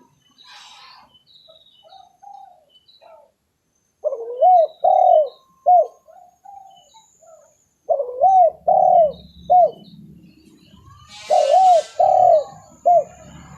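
Spotted dove (tekukur) cooing: three phrases of low coos a few seconds apart, each opening with a rising-then-falling note and followed by two or three shorter notes. Faint high chirps sound between the phrases.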